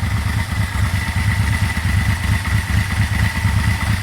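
Yamaha V-Max V4 motorcycle engine idling steadily off choke, still warming up, with a faint steady high whine above the beat. It is not yet knocking; the knock that comes on when the oil is warm is what the owner suspects points to low oil pressure.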